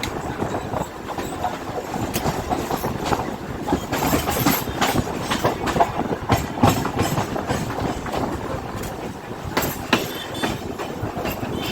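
Local train running on the rails, its wheels clattering with many irregular sharp clicks over a steady rumble.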